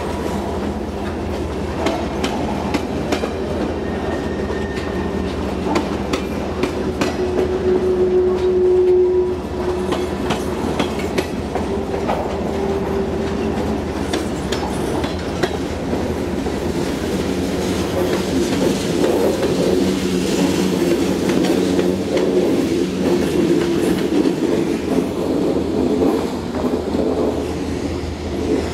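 Freight train of tank cars and covered hoppers rolling through, its steel wheels clicking and clacking over the rail joints over a steady rumble.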